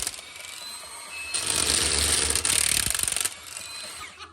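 Impact wrench hammering in one burst of about two seconds, loosening bolts on a Chevrolet 6.2 V8 being torn down, most likely the one-time-use cylinder head bolts.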